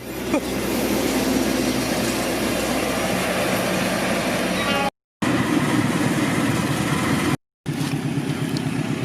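Train passing close by: a loud, steady rumble with an engine hum under it, cutting out abruptly twice, once about halfway through and again a couple of seconds later.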